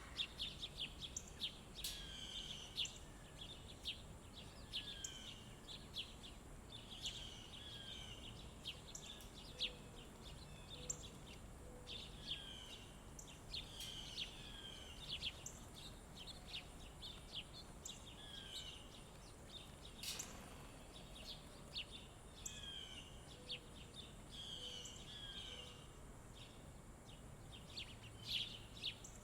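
Several small songbirds chirping and calling: a continuous stream of short, high chirps with many downward-slurred notes, over a faint outdoor hiss. Twice there is a short run of three low notes, and a single sharp click comes about two-thirds of the way through.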